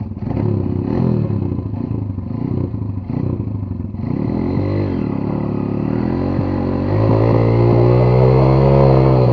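Chinese enduro motorcycle engine revving up and down several times, then held at high revs for about two seconds near the end.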